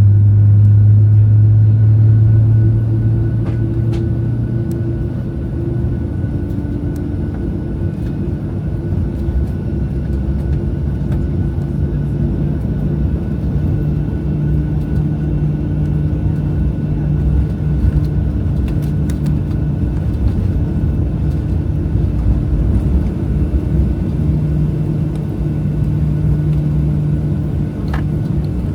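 Boeing 737-700 jet engines heard from inside the passenger cabin: a steady loud rumble with a few faint steady whines over it. A deep hum that is strongest at first eases off about three seconds in.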